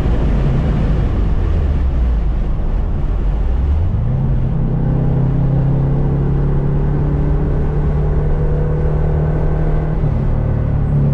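Subaru EJ257 turbocharged flat-four engine running hard on a race track: its note drops off at the start, runs low for a few seconds, then jumps up in pitch about four seconds in and holds at high revs.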